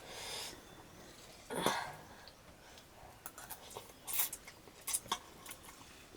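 A person eating hot, spicy noodles: a breathy rush, a sudden cough-like burst about a second and a half in, then scattered light clicks and taps.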